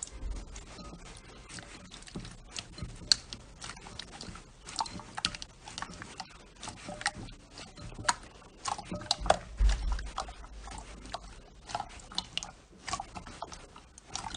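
Slime being worked by hand, with an irregular run of wet clicks and pops. The loudest cluster comes about nine to ten seconds in, with a dull thud.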